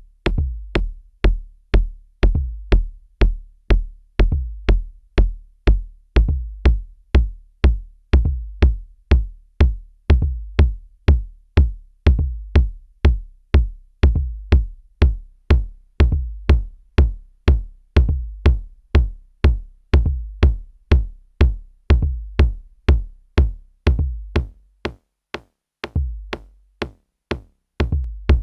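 Korg drumlogue drum machine playing a steady kick drum pattern, about two deep kicks a second, each with a sharp click at the front. Near the end the pattern breaks briefly and one longer, deeper kick sounds before it resumes.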